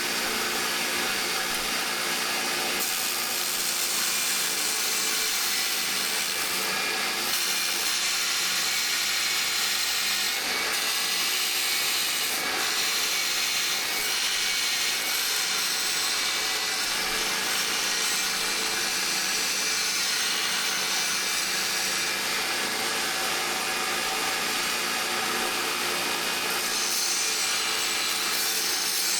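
Power tool running steadily and without a break, working the steel of an old saw blade.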